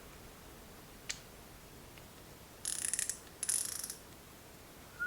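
A single click, then two short bursts of rapid ratcheting clicks from a small mechanism.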